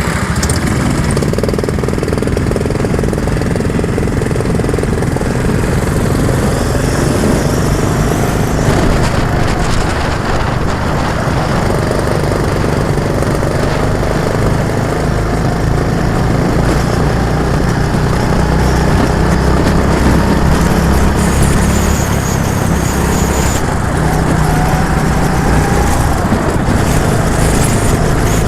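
A vehicle engine running steadily and close, its pitch slowly rising and easing off a few times.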